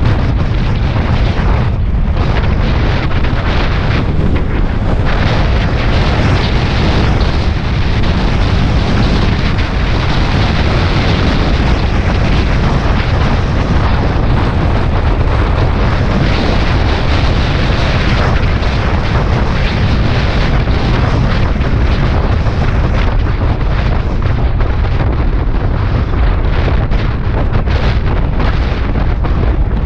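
Steady, loud wind rush buffeting the microphone of a Suzuki Bandit 650S ridden at highway speed, heaviest in the low range, with no clear engine note standing out above it.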